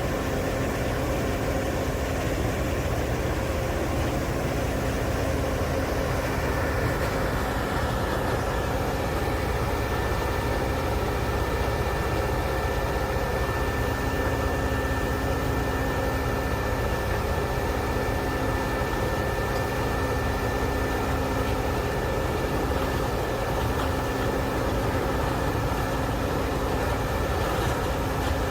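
Heavy diesel engine of a Morbark 6400 XT horizontal grinder running steadily, a constant low rumble with several steady tones above it and a thin whine that comes in about eight seconds in.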